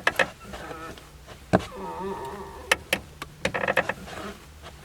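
A Lada clutch pedal on a cable-operated gearbox being pressed and released, giving sharp clicks and a wavering creaky squeak with each stroke. It is the familiar clutch-pedal click, crunch and squeak of these cable clutches.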